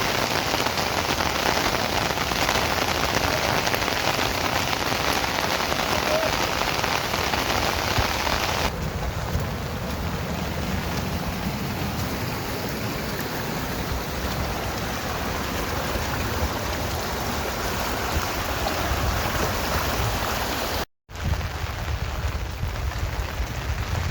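Steady rain falling, a dense hiss of drops. About nine seconds in the sound turns abruptly duller with more low rumble, and it drops out for a moment near the end.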